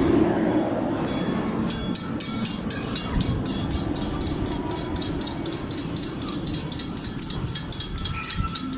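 Train rumbling past, the rumble easing off. About two seconds in, a bell starts ringing rapidly and steadily, about four or five strikes a second.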